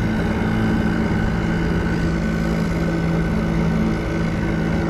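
Boat engine running steadily at trolling speed, a constant low drone with a faint wash of water and wind.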